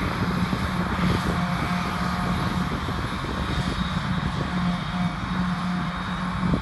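Heavy diesel farm machinery at work in a grass silage harvest, an engine running with a steady low drone.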